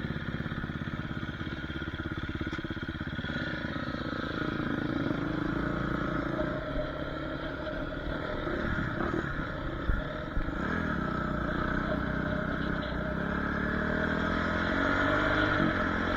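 Dirt bike engine running, its pitch rising and falling with the throttle, with a couple of sharp knocks about ten seconds in.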